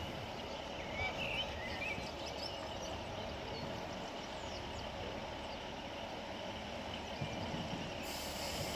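Steady background rumble of a passenger train approaching in the distance, with a few bird chirps about a second in.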